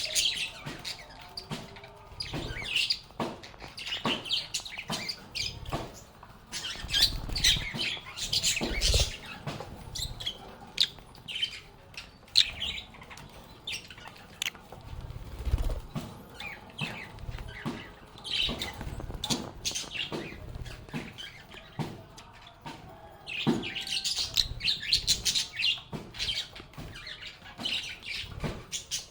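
A group of lovebirds chirping and chattering in short, busy bursts, mixed with sharp clicks and a few soft low thumps.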